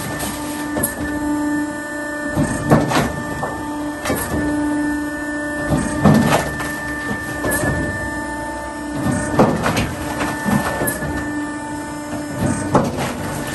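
Automatic hydraulic firewood splitter running: a steady machine hum with irregular sharp cracks and clatter every second or two as logs are split.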